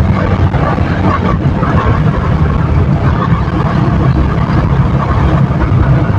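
KTM motorcycle engine and exhaust running steadily under way.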